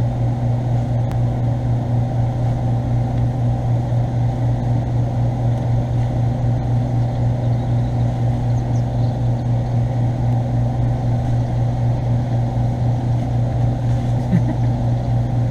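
A steady low mechanical hum from a running motor, even and unbroken, with a slight regular pulse.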